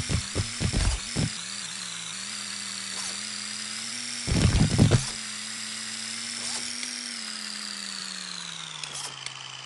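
Electric motor whine of an RC monster truck, steady and high-pitched, sliding down in pitch over the last few seconds as it slows. Clusters of clattering knocks come in the first second and again about halfway through as the truck bangs over the ground.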